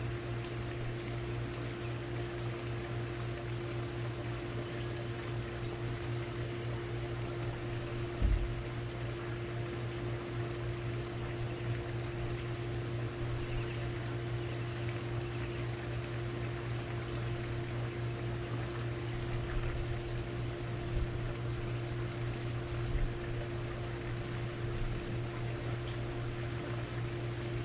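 Outdoor heat pump units running steadily: the scroll compressor's low hum with a higher overtone, under the rush of the condenser fan. There is a brief low thump about eight seconds in.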